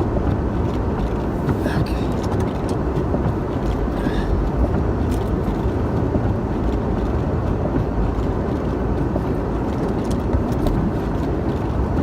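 1996 Ford Bronco driving through deep snow in four-wheel drive: a steady rumble of engine, tyres and wind noise, with a few faint clicks.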